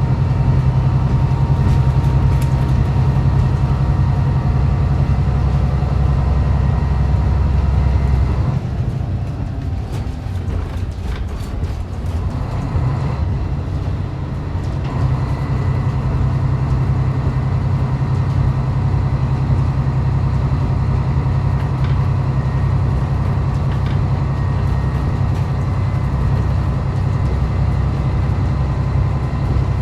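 Diesel railcar running along the line, heard from inside the car. The engine's low drone under power drops away about eight seconds in, leaving quieter wheel and rail running noise while coasting, then picks up again about halfway through.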